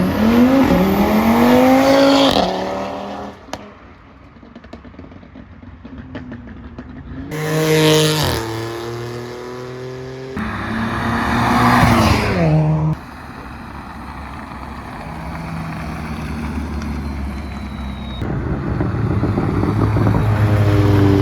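Car engines revving hard in repeated bursts. Each time the pitch climbs steeply, then drops off abruptly, with a lower engine rumble between the bursts. About four bursts: one at the start, one around eight seconds, one around eleven to thirteen seconds, and one building near the end.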